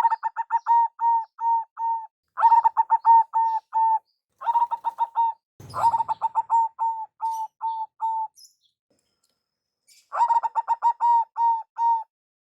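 Zebra dove (perkutut) cooing: five phrases of short, evenly pitched notes, each phrase starting quick and spacing out toward its end, with a pause of about two seconds before the last one.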